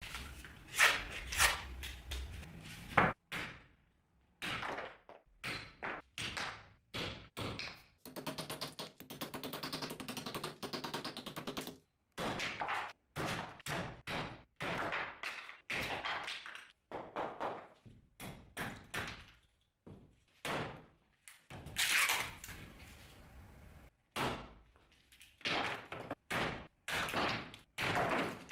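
Restored axe striking wood in a series of separate thunks and knocks, with a longer rough scraping stretch about eight to twelve seconds in.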